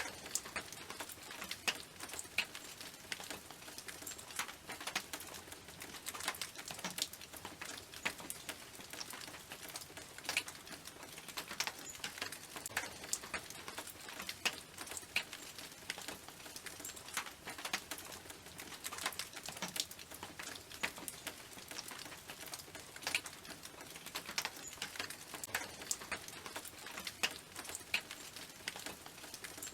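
Raindrops falling on a tin roof: an irregular patter of sharp individual drips over a soft steady hiss.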